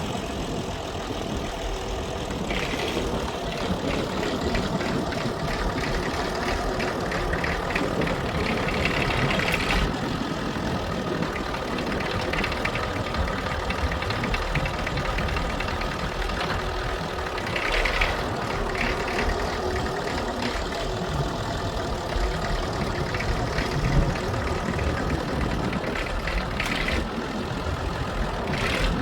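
Fordson E27N tractor's Perkins P6 six-cylinder diesel engine running steadily, with a few clanks and one sharp knock near the end.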